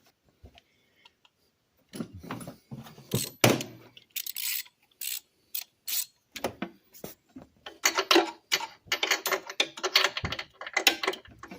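Metal hand tools clicking and clinking in irregular bursts as a socket wrench is worked onto a spark plug to take it out of a two-stroke golf cart engine. It starts about two seconds in and grows busier near the end.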